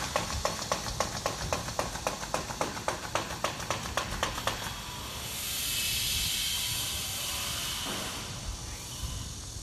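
Rapid, regular clicking, about six clicks a second, stops after about four and a half seconds. A steady high hiss follows, like air or steam being let out, fading out about three seconds later.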